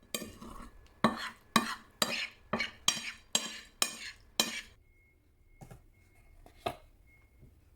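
A utensil clinking against a dish about nine times in quick, even succession, roughly two a second, then twice more, more softly, after a short pause.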